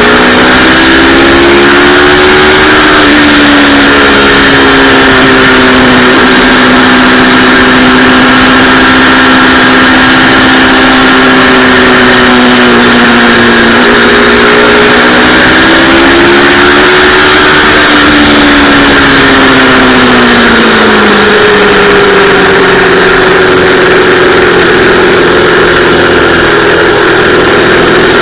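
Yamaha R3's 321 cc parallel-twin engine running hard, its pitch sagging and climbing with the throttle: it dips about halfway through, rises again, then drops sharply near the end and holds. A steady hiss of wind noise runs underneath.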